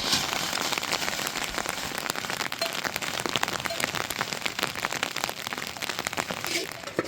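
Steady rain, a dense, irregular patter of drops hitting a surface.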